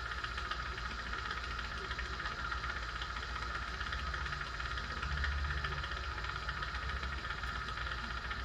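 Steady hiss over a low hum from running workshop equipment, unchanging throughout.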